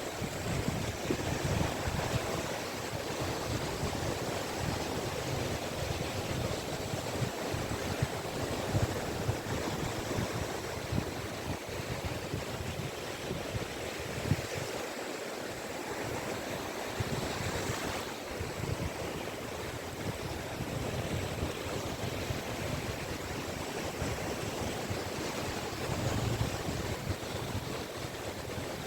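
Sea waves breaking and washing onto a beach, a steady surf rushing that swells and eases, with some wind on the microphone.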